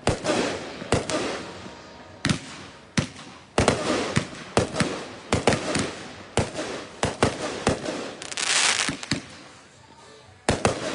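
Consumer fireworks firing: a rapid, irregular series of sharp bangs with echoing tails, and a burst of hissing about eight seconds in.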